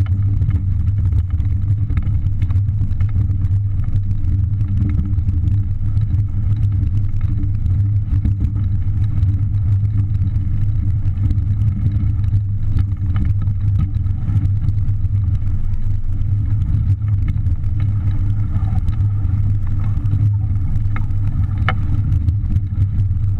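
Strong wind buffeting the microphone on a small sailboat in a 20-to-30-knot blow: a loud, steady, fluttering low rumble.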